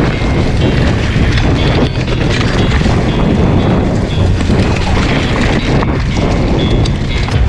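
Loud, steady wind buffeting on the microphone while riding.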